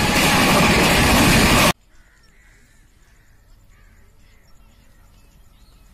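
Passenger coaches of an express train rushing past at speed, a loud steady roar of wheels and wind that cuts off suddenly about a second and a half in. After that it is quiet, with a few faint bird calls.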